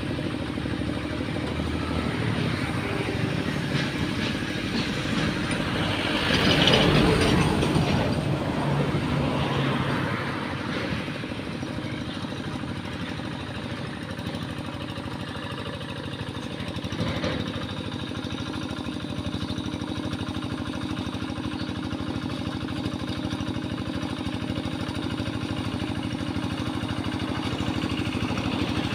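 Tractor engine running steadily while plowing a muddy rice paddy, rising louder for about two seconds some six seconds in.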